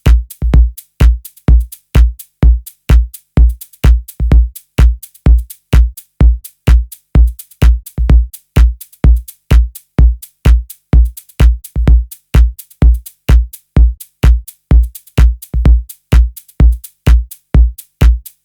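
Electronic dance music stripped down to a bare, steady four-on-the-floor kick drum, about two deep beats a second, with almost nothing else between the hits.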